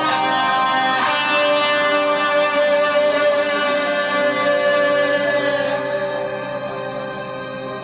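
Live rock band music led by electric guitar: a chord struck about a second in rings out and slowly fades toward the end.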